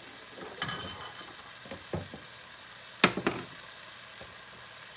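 A few knocks and clinks of a utensil against a pan, the loudest about three seconds in, over the faint sizzle of butter melting in the pan.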